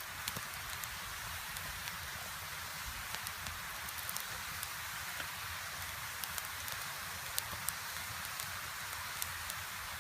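Small wood fire crackling: a steady hiss with scattered sharp pops and snaps.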